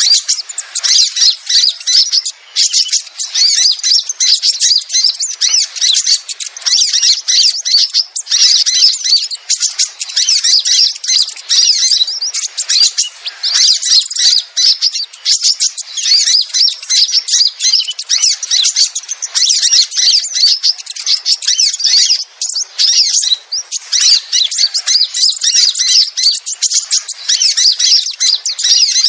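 Sogon bird lure recording: dense, rapid, high-pitched chirping and twittering that runs on with only brief gaps. It is played to call sogon birds down to a trap.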